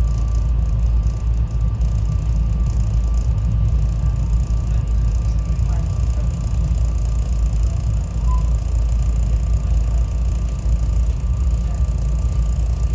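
SEPTA Regional Rail electric train running, a steady low rumble heard from inside the passenger car, with a faint steady whine above it.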